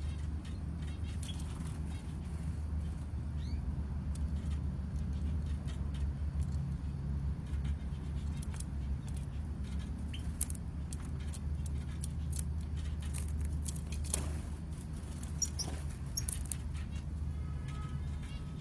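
Short, high chirps and calls of small aviary birds, scattered throughout, over a steady low hum.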